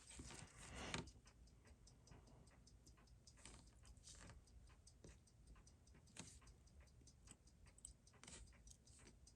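Faint, regular ticking of a timepiece, with a few louder single clicks among the ticks.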